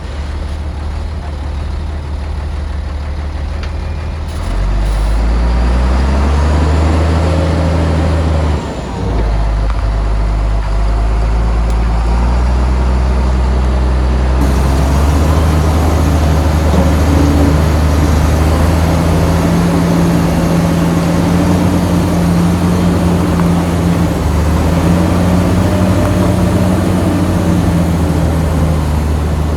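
Heavy diesel engine of earthmoving machinery running and working. The engine note rises about four seconds in, dips briefly near nine seconds, then runs on steadily.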